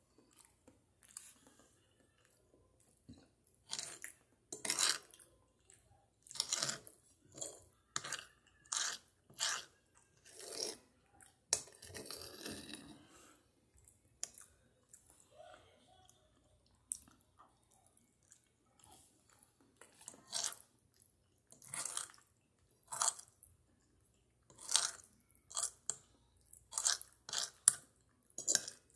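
Close-miked chewing of spaghetti: short wet bursts in uneven runs, with quiet pauses between mouthfuls.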